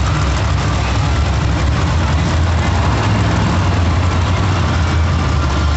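Monster truck engine running with a deep, steady low note, under a continuous wash of arena noise.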